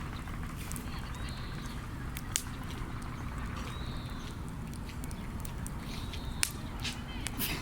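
Wood bonfire burning with a steady low rumble and a few sharp crackling pops, the loudest about six seconds in.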